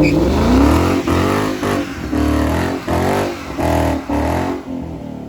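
Car engine revving hard in a string of about six quick blips, its pitch rising and falling with each one, then dropping away near the end.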